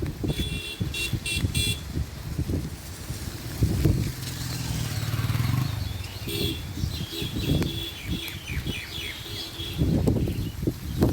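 Strong wind gusting against the microphone in uneven low rumbles, with a bird giving short repeated chirps in two spells, near the start and again in the second half.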